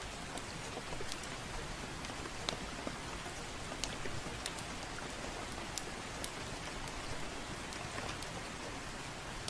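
Soft rain falling steadily, with scattered sharp crackles from a wood fire in a fireplace.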